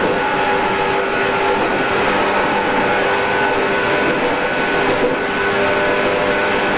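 JR East 113 series electric train running at a steady speed: continuous wheel-on-rail rumble with several steady level tones from the running gear, taken from a cassette-tape recording.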